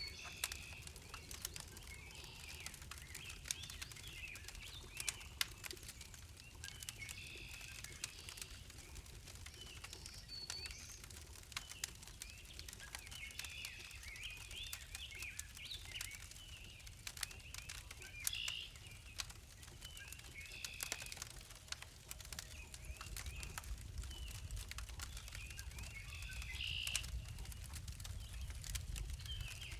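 Songbirds chirping and calling on and off, with scattered light clicks and a low rumble underneath that grows stronger about two-thirds of the way through.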